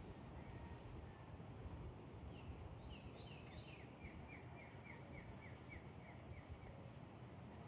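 A songbird singing faintly: a few higher notes, then a quick run of about a dozen short, repeated falling notes at roughly four a second, over a low, steady outdoor rumble.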